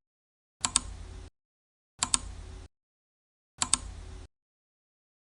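A repeated clicking sound effect, three times about a second and a half apart: each is a sharp double click followed by a brief soft hiss, with silence between.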